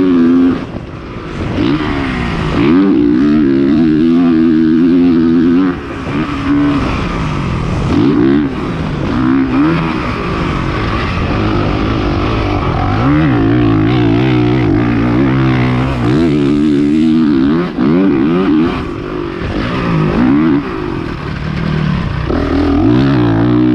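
Honda CRF450R four-stroke 450cc dirt bike engine revving hard and falling back over and over as the throttle is opened and chopped, with several short dips where the throttle is shut off.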